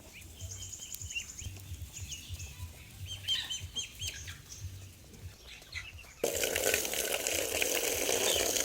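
Ducklings peeping in short, high chirps. About six seconds in, a loud rush of running water starts abruptly and covers the rest.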